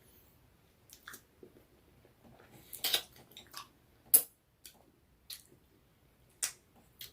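Close-miked mukbang eating sounds: a person chewing noodles and chicken, with a handful of separate short wet smacks and crunches, the loudest about four seconds in.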